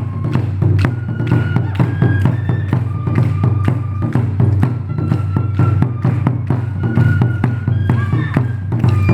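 Ensemble taiko drumming: rapid, driving strikes on Japanese drums, with a melody of short held notes sounding over them.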